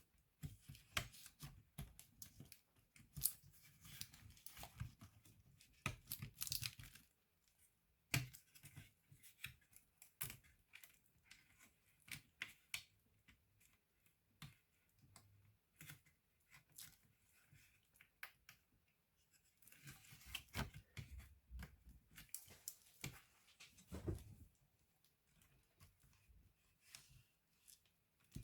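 Faint, uneven clicks, taps and scrapes of hands working on a laptop's parts during disassembly or reassembly, with a few short pauses.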